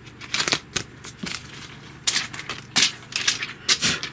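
Irregular sharp clicks and taps of small hard objects being handled on a surface, several in quick succession, with faint rustling between them.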